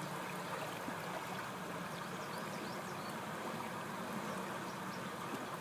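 Creek water flowing steadily, an even rush of moving water.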